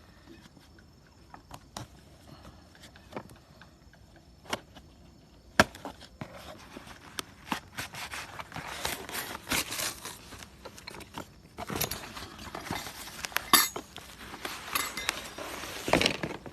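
A boxed bird perch stand being unpacked and its parts handled: a few scattered clicks at first, then, from about six seconds in, a busy run of packaging rustles, clinks and knocks.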